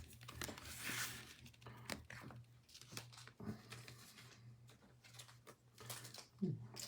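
Faint crinkling and tearing of a foil trading card pack wrapper, with small clicks and rustles of cards being handled; the crinkling is strongest about a second in.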